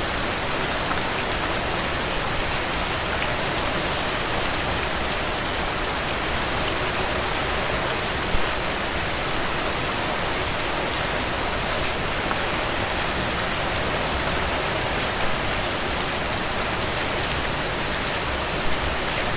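Steady rain falling on leaves, a dense even patter with a few louder single drops standing out now and then.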